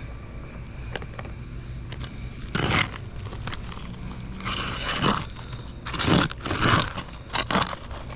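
Roof shingles scraping and crunching in several short, irregular bursts as a tool is worked under them to get at a roofing nail.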